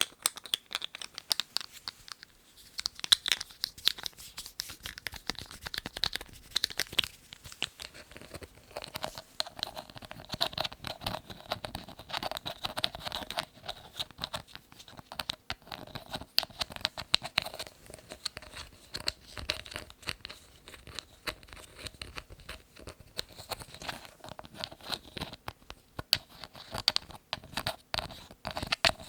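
Lids being handled close to the microphone: dense, irregular tapping, scratching and crinkling, with a faint ringing tone from about ten to eighteen seconds in.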